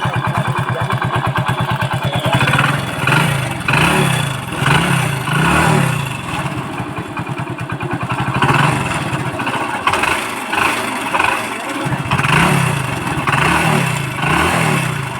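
Hero Splendor motorcycle's single-cylinder engine idling, then revved in a string of short throttle blips, with a steadier idle for a few seconds around the middle. The exhaust sounds sealed: the broken bolt at the silencer joint has been replaced with a new nut, curing the loud exhaust leak.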